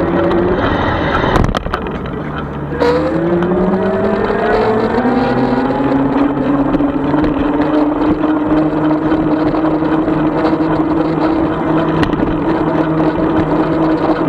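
36-volt electric bike motor whining and rising in pitch as the bike speeds up. The whine drops out with a couple of clicks about a second and a half in, then climbs again from about three seconds and settles into a steady whine at cruising speed.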